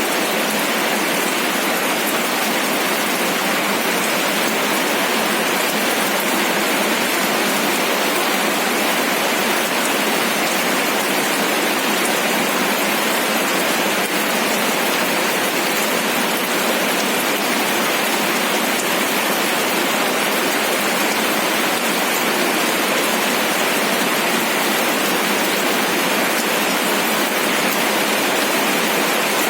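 Steady rain, a dense even hiss of drops with no change in strength.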